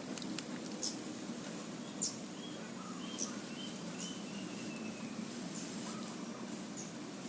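Birds chirping: short, sharp, high chirps scattered irregularly, with a few softer lower notes, one a longer falling note, over a steady low background rumble.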